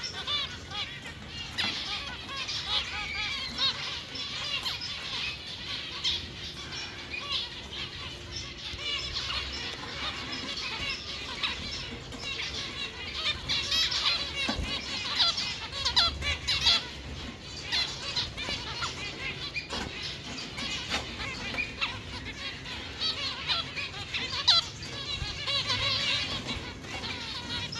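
Dense, continuous chorus of many small caged birds chirping and twittering, with a few sharp clicks.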